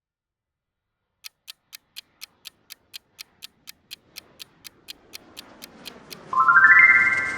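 Quiz countdown timer sound effect: a clock ticking about four times a second over a faint swell, after a second of silence. Near the end it gives way to a louder short run of bright tones stepping upward.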